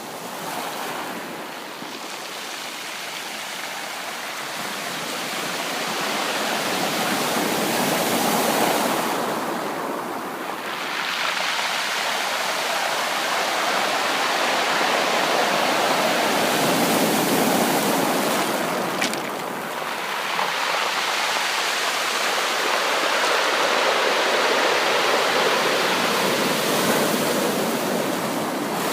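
Sea waves breaking and washing up a shore, the surf swelling and falling back about every nine or ten seconds.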